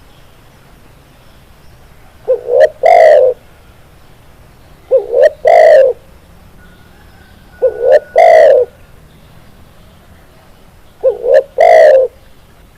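Spotted dove (tekukur) cooing: four calls about three seconds apart, each a couple of short notes followed by a longer, drawn-out coo.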